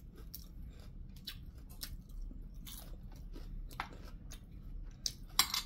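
Close-up chewing and biting of crispy fried lumpia (Filipino spring rolls): a run of scattered crisp crunches, with a few louder ones near the end.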